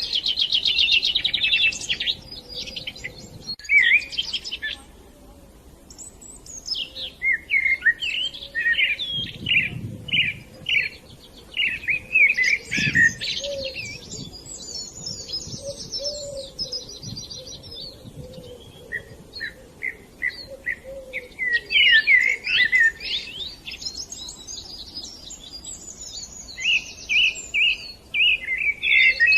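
Budgerigars chirping and warbling in quick, busy chatter, with a brief lull about five seconds in.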